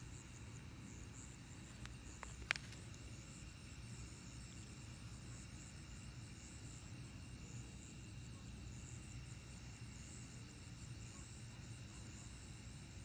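Night insect chorus of crickets and other insects, trilling steadily in several high pitches. A single sharp click about two and a half seconds in, just after two fainter ticks.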